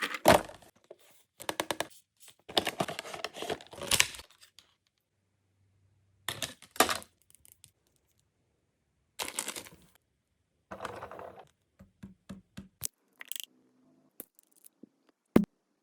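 Plastic toy pieces and packaging being handled at close range: separate bursts of clicking, rattling and rustling with short pauses between them, a few small clunks, and one sharp click near the end.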